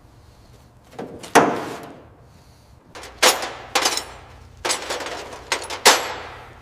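A series of sharp bangs, about nine in three clusters, each ringing briefly; the sound cuts off abruptly near the end.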